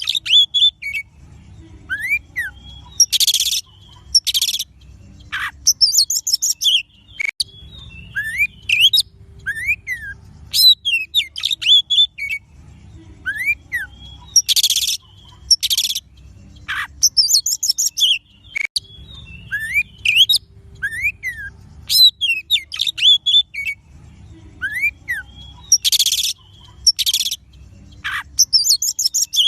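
Oriental magpie-robin (kacer) song played as a lure recording: clear whistled notes that rise and fall, broken by loud, harsh bursts. The same sequence of phrases repeats about every eleven seconds, as a loop.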